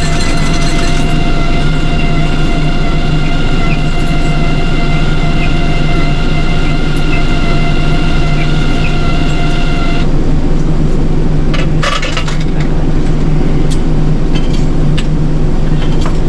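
City bus running, heard from inside: a steady engine hum with a high whine over it that stops about ten seconds in, and a few rattles and clicks after that.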